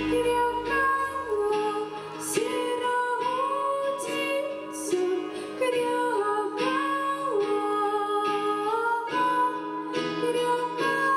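Female voices singing a slow, sad song over an instrumental accompaniment, the notes held and gliding from one to the next.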